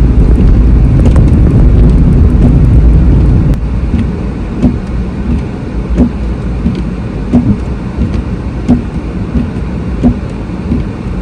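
Road rumble inside a moving car. About three and a half seconds in it drops quieter, and a turn-signal indicator ticks evenly, roughly three ticks every two seconds.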